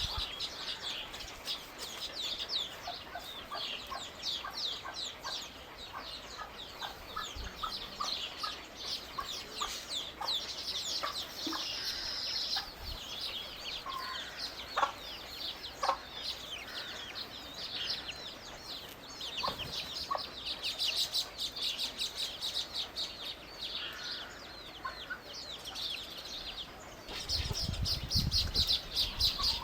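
Many birds chirping and calling, a dense run of short high chirps; a low rumble comes in near the end.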